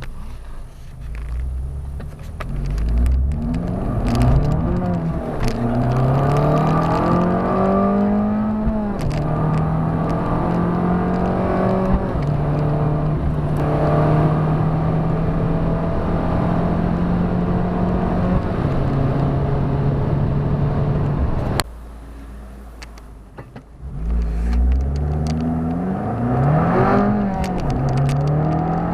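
Abarth 595's 1.4 turbocharged four-cylinder with a Record Monza exhaust accelerating hard through the gears. The engine note climbs and drops back at each quick upshift, then holds a near-steady pitch at speed. About three quarters of the way through it suddenly goes much quieter, then pulls hard through several more upshifts.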